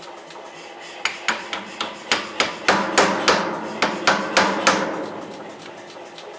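Hammer blows on steel over an anvil while forging a cleaver blade: about a dozen strikes at roughly three a second, each with a short metallic ring. The blows start about a second in and stop near five seconds, over a steady hum.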